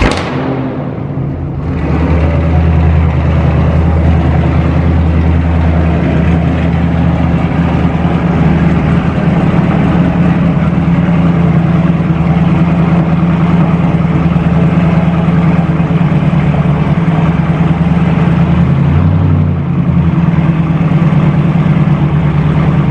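Dodge Charger Scat Pack's 392 (6.4-litre HEMI) V8 catching on a cold start, then settling into a loud, steady fast idle; the sound dips briefly about 19 seconds in.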